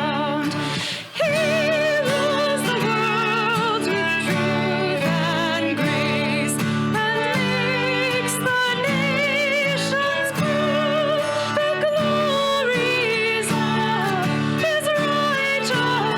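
Worship band performing a Christmas song, a lead singer with vibrato over sustained instrumental chords, with a brief dip about a second in.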